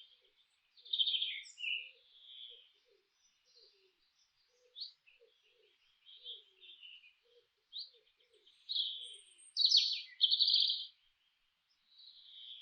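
Songbirds chirping and singing in short, high bursts, several overlapping, with the loudest phrases about three-quarters of the way through. Faint, short low notes repeat underneath through the first part.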